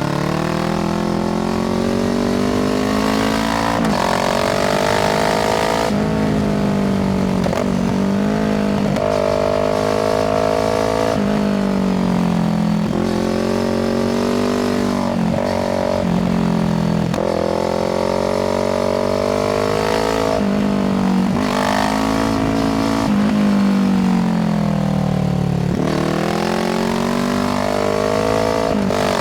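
Kawasaki Z650 parallel-twin engine through an IXIL aftermarket exhaust, ridden hard: the revs climb under acceleration again and again, each climb broken by a quick drop at a gear change or as the throttle closes, about ten times.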